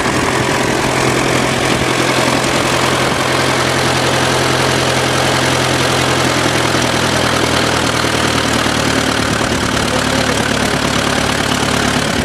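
1926 Fordson tractor's four-cylinder engine running steadily on kerosene, with the growl of its worm-drive transmission, which is normal for a Fordson, as it pulls a two-bottom plow.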